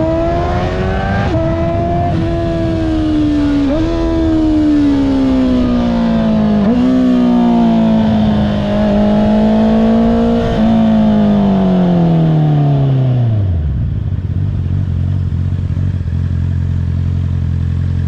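Honda CBR650R inline-four with an Akrapovic exhaust slowing down through the gears: the engine note falls and jumps up with each of four downshifts. About three-quarters of the way through, the revs drop away and it settles to a steady idle.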